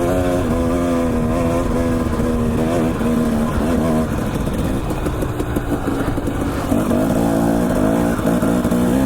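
Dirt bike engine running while riding, holding steady revs for about four seconds, then rising and falling as the throttle is worked.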